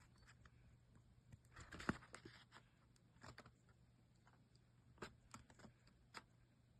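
Near silence: faint room tone with a few soft clicks and rustles, the most noticeable one about two seconds in.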